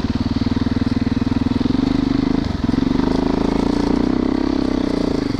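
Dirt bike engine running close by with a steady, even beat, dipping briefly about halfway through and then picking up again slightly stronger.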